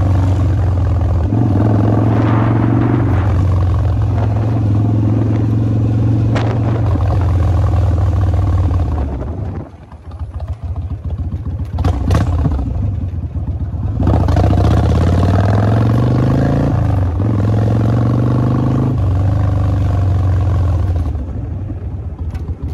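Kawasaki Vulcan 1600 Mean Streak V-twin engine running under way. It drops off as the bike slows about ten seconds in, with a few sharp clicks near the middle, then picks up again with a rising note as it pulls away.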